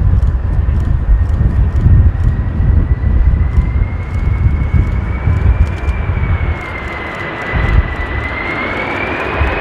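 Jet airliner on approach, its engines giving a thin whine that wavers and rises slowly toward the end, under heavy, gusty rumble from strong wind on the microphone.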